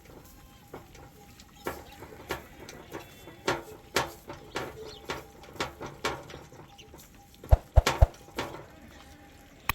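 Sheep and goats bleating now and then among scattered clicks and knocks, with a few heavy thumps about seven and a half seconds in.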